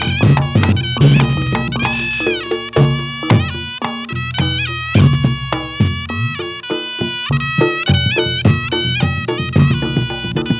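Reog Ponorogo ensemble playing jathilan dance music: a slompret (Javanese double-reed shawm) plays a reedy melody with bending, ornamented notes over drums and struck percussion.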